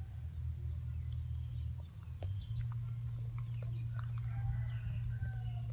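Outdoor garden ambience: a steady low hum and a steady high hiss or insect drone, with a bird chirping three times in quick succession about a second in. Faint scattered bird calls follow in the second half.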